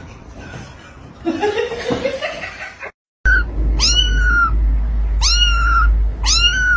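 A cat meows three times in quick succession, each meow a high call that rises then falls, over a steady low hum. Before a sudden cut, a shorter rising call is heard.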